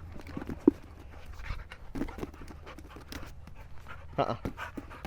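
Pit bull mix dog panting, with scattered light taps and clicks and one sharp knock about two-thirds of a second in.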